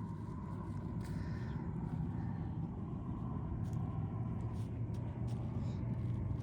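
A motor running with a steady low hum, slowly getting louder.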